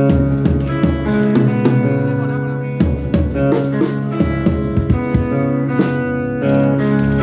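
Band playing at a sound check: held guitar chords over a drum kit with frequent hits.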